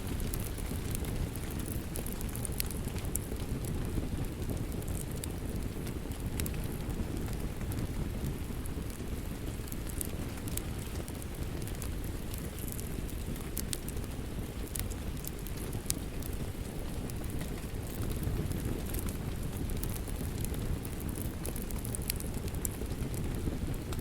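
Wood fire crackling in a fireplace: a steady low rumble of flames with frequent sharp snaps and pops.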